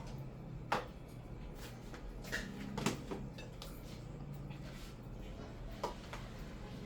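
A few sharp knocks and clinks, about four of them, over a low steady hum: kitchen utensils striking pots and plates while food is dished up.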